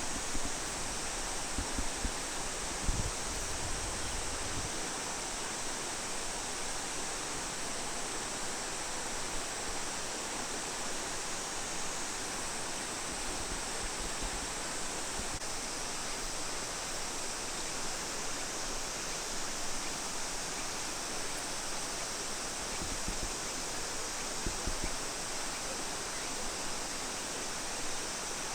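Steady rushing of falling water, an even hiss with no change, with a few low bumps in the first few seconds.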